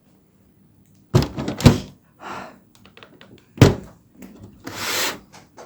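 A few thuds and knocks: a quick cluster about a second in, one sharp knock a little past halfway, then a longer scraping or rushing noise near the end.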